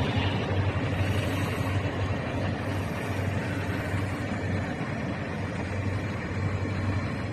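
Passenger cars of a train rolling past at speed: a steady rumble of wheels on rail.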